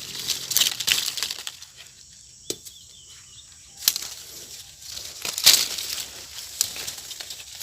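Mango leaves and twigs rustling in several bursts as they are handled, with a sharp click about two and a half seconds in.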